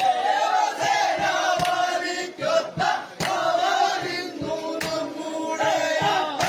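A large group of men chanting and shouting in unison, with sharp knocks roughly every half second keeping the beat.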